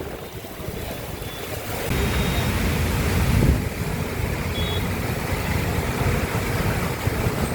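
Road traffic noise: vehicles passing, with wind rumbling on the microphone, louder from about two seconds in. A couple of faint short horn toots sound far off.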